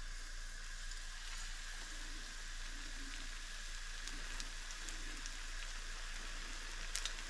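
Beer-battered whiting goujons frying in a shallow layer of hot oil in a frying pan: a steady sizzle with a sharper crackle near the end.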